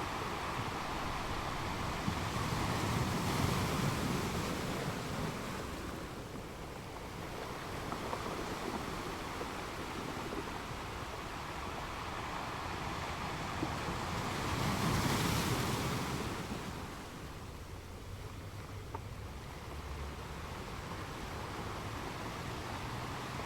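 Ocean surf: a steady wash of waves on a shore, with one wave building and breaking about three seconds in and a louder one about fifteen seconds in.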